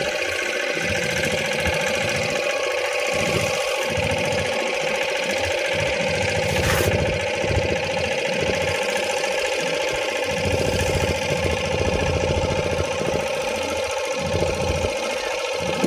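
Boat engine running steadily with a constant drone. A single brief click about seven seconds in.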